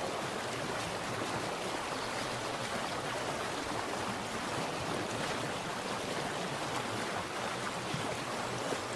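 Water splashing and running steadily, a continuous even rush with small flickers of splashes throughout.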